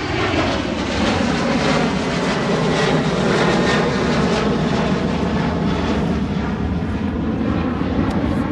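Boeing 737 airliner's jet engines at takeoff power as it climbs away just after lift-off: a loud, steady jet noise.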